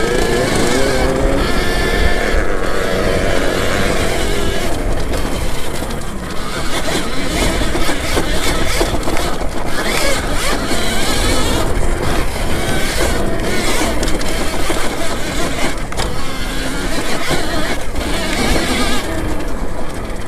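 Electric dirt bike being ridden, with steady wind buffeting on the helmet microphone and the electric motor's whine and drivetrain noise underneath.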